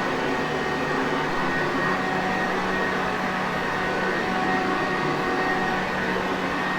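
Sanitaire Perfect upright vacuum cleaner running steadily: an even rushing noise with a steady motor hum and a faint high whine, no change in level.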